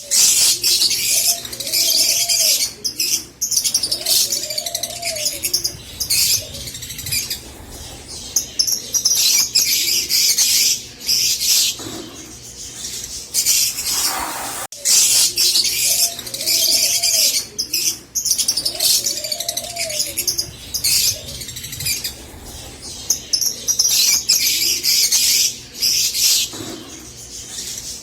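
A flock of rosy-faced lovebirds chattering with dense, rapid, high-pitched chirps and squeaks, mixed with a few softer, lower arched calls. The same stretch of song repeats after about fifteen seconds.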